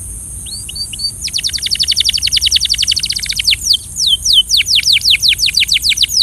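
Canary singing: a few short notes, then a fast rolling trill of rapid falling whistles that slows about halfway through into separate, slower falling notes, over a steady high hiss.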